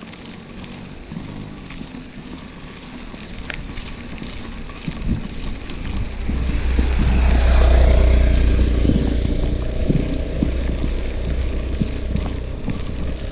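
Wind rumbling on the camera microphone, with rushing noise from a moving mountain bike. It builds about five seconds in, peaks around the middle and eases slightly afterwards.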